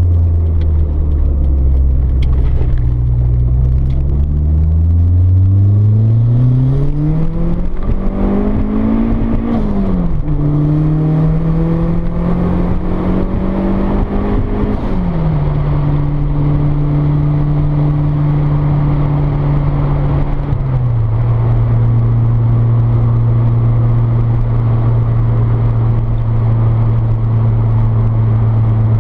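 Turbocharged Toyota 4A-GE twin-cam four-cylinder in an AE82 Corolla, heard from inside the cabin, pulling hard under acceleration. The engine note rises with the revs, then drops sharply at gear changes about 10 and 15 seconds in. A third drop comes about 20 seconds in, after which the engine settles into a steady cruise.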